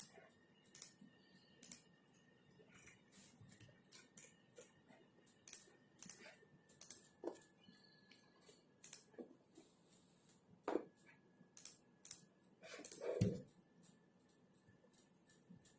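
Quiet, irregular clicks and taps of computer-keyboard typing and desk work, a few a second, with a louder knock near the end. A faint, steady high whine runs underneath.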